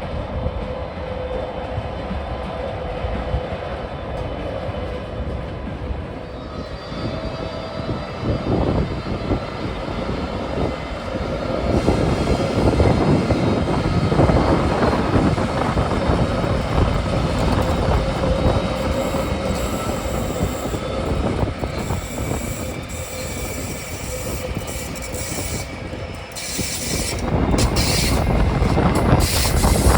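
Locomotive-hauled trains moving along the platform tracks of a main station, with a steady rumble of wheels on rail. The sound grows louder about twelve seconds in and again near the end as the locomotives come closer.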